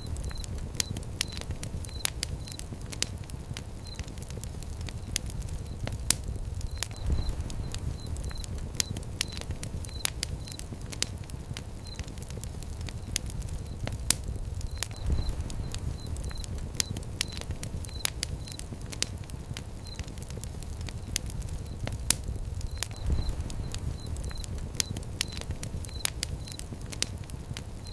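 Fire crackling: frequent sharp irregular pops over a low steady rumble of flame, with faint high chirps repeating in small groups.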